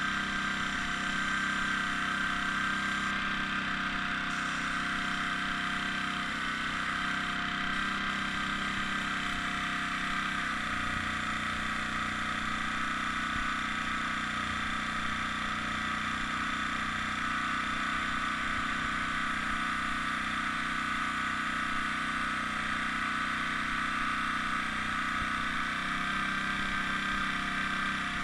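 Air compressor running steadily for the airbrush, a constant motor hum whose low tone shifts slightly about ten seconds in and again near the end.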